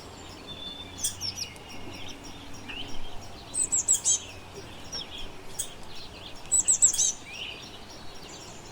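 Wild birds chirping and calling, with quick runs of high, rapidly repeated notes about every three seconds.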